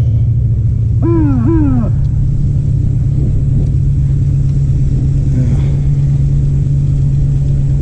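Steady low rumble of a vehicle engine running at low speed while cruising slowly. About a second in, two short pitched calls rise and fall, like a voice calling out.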